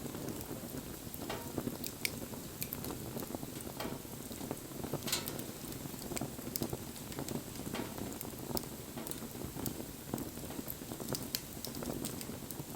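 Wood fire burning: a steady low rush of flames, with irregular sharp crackles and pops from the burning wood.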